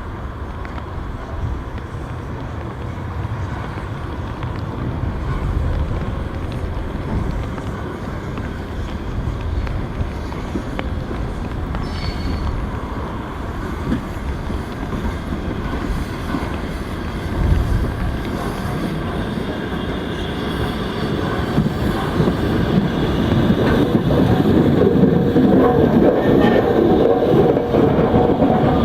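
A train running on the rails, with the rumble of wheels and track, growing louder over the last several seconds as it comes nearer.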